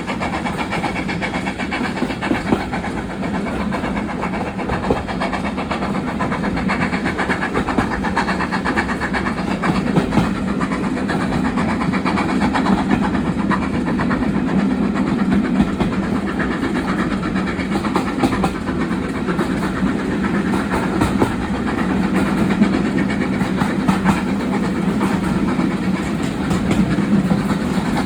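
Train running steadily along the track, heard from aboard: a continuous rumble of wheels on rails with a steady low hum.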